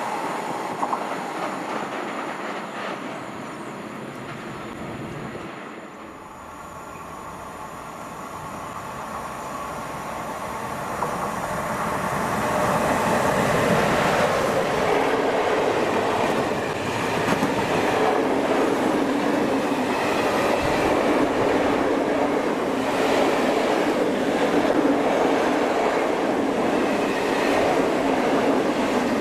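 A train passing through the station, its wheels running on the rails. The sound dies down over the first few seconds, then builds again and is loud from about twelve seconds in as the train rolls past.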